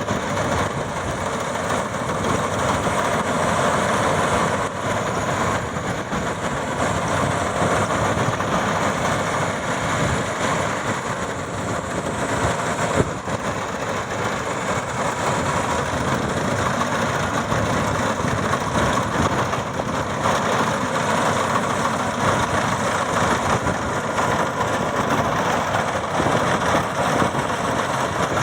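Maxxi Bimo 102 X Top combine harvester running steadily, its engine and machinery making a dense, even mechanical noise.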